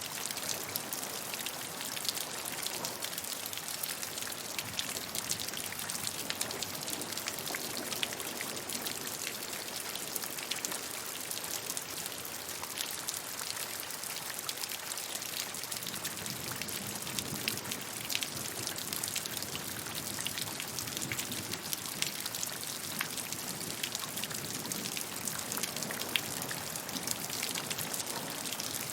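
Steady rain falling, a constant hiss with dense, fine patter of individual drops hitting a surface.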